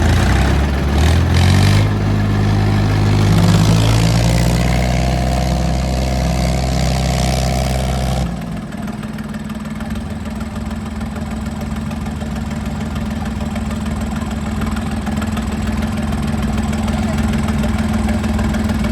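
Diesel tractor engine revving up over a few seconds and holding at high revs under load. About eight seconds in, the sound changes suddenly to a steady, lower engine run.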